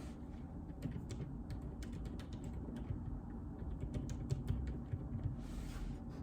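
Typing on a JJK84 mechanical keyboard with Outemu Silent Peach linear switches: a run of quick, irregular key clicks that stops about a second before the end, followed by a brief rustle.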